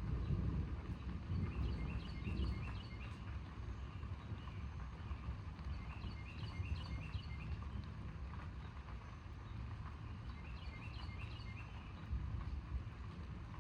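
A bird singing short chirping phrases that repeat about every five seconds, over a steady low rumbling background noise that is a little louder in the first few seconds.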